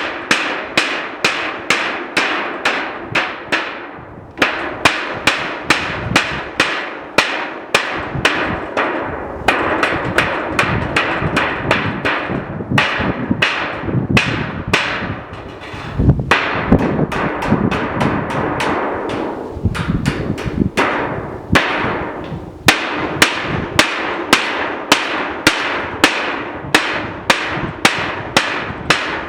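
Steady hammering, about two blows a second, each with a short ringing tail. The strikes are less regular through the middle, with a rougher, heavier stretch.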